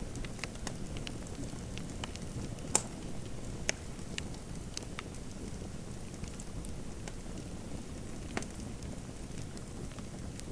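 Fireplace fire crackling: a steady low rumble with scattered sharp pops and snaps, the loudest a little under three seconds in, another about a second later, and one more near the end.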